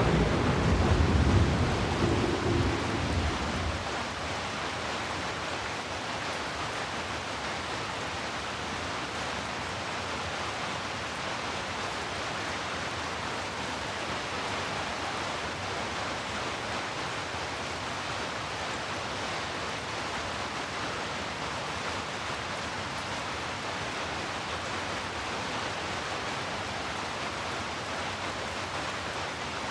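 Steady heavy rain hissing evenly. A low rumble of thunder, the loudest sound here, fades out in the first few seconds.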